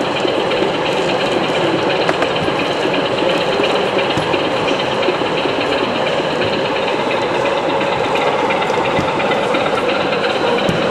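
Steady hubbub of a busy exhibition hall around running OO gauge model railway layouts, with faint scattered clicks.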